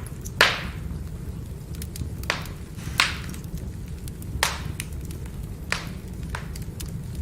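Firewood burning, crackling with about six sharp pops over a steady low rumble of the fire, the loudest about half a second in.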